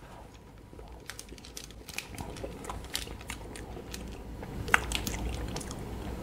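Chewing a mouthful of ice cream sandwich close to the microphone: soft, wet mouth clicks and smacks scattered throughout, one sharper click a little before the five-second mark.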